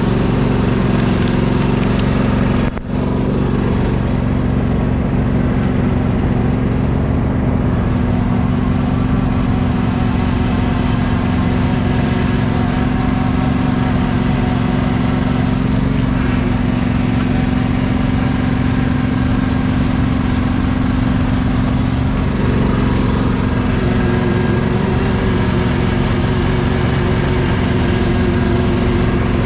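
Engine running steadily, a continuous drone with a short dip in level about three seconds in.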